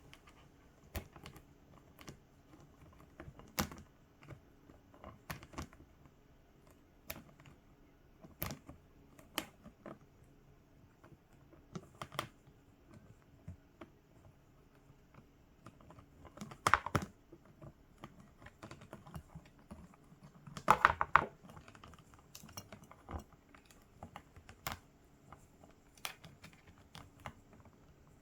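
Quaker parrot crunching and nibbling on a carrot: scattered small, irregular crunchy clicks, with a few louder bursts of crunching in the second half.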